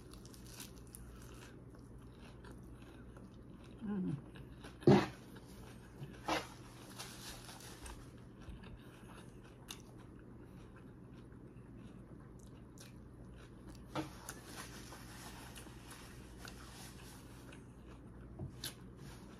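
A person biting and chewing fresh salad greens and raw vegetables with scattered crisp crunches. The loudest crunch comes about five seconds in, with a few more spread through quiet stretches of chewing.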